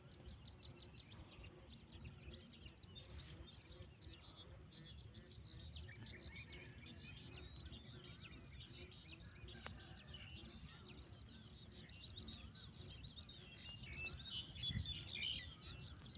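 Many small birds chirping and twittering without pause, faint, over a low steady rumble; the calls grow louder near the end.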